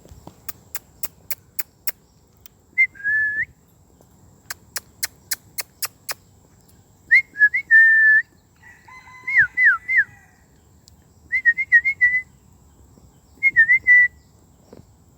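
Short, clear whistled calls with quick up-and-down pitch glides, heard five times. Two runs of sharp, evenly spaced clicks, about three a second, come near the start and in the first half.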